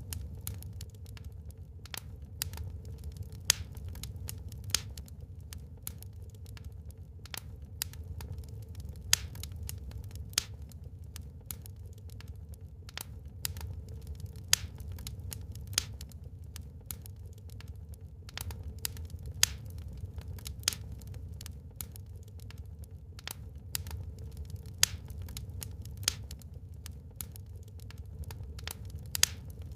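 Wood fire burning in a fireplace, crackling with frequent irregular sharp pops, a few of them loud, over a steady low rumble.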